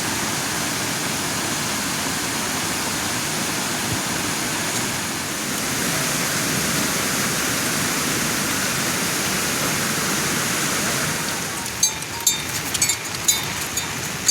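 Steady, even noise of falling or running water, as from rain or a mountain stream. About two seconds before the end, a run of sharp, irregular clicks and clinks comes in over it.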